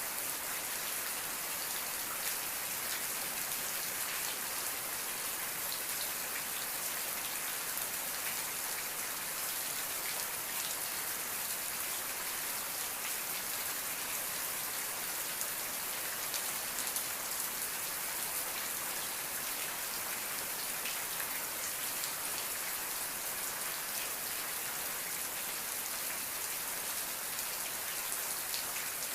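Steady rain falling, a continuous hiss with many small drop ticks and no thunder.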